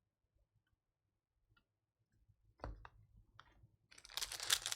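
A few light clicks from trading cards being handled, then a card pack's wrapper crinkling near the end.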